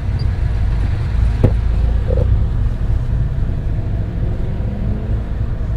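LS V8 engine of a swapped BMW E36 running steadily and low-pitched, with a faint whine rising in pitch near the end. There is a single sharp click about one and a half seconds in.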